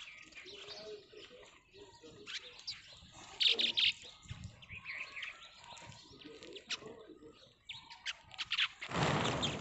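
Sparrows chirping, many short repeated chirps throughout, with a loud rush of noise near the end.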